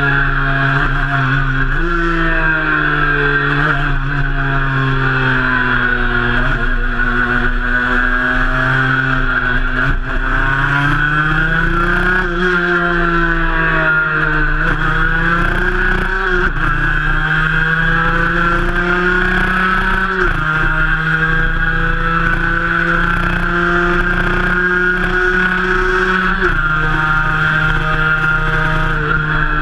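Cagiva Mito's 125 cc two-stroke single-cylinder engine running under way, heard from on board. The engine note rises and falls with the throttle, with several sudden jumps in pitch as the rider changes gear.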